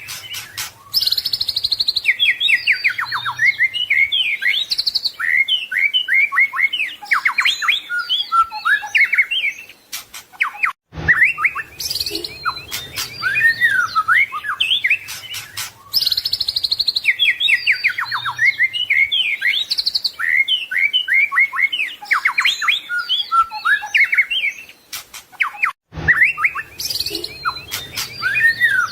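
White-rumped shama singing a fast, varied song of whistles, trills and chattering notes, packed with imitated phrases. The same run of song repeats about every 15 seconds, with a brief break before each repeat.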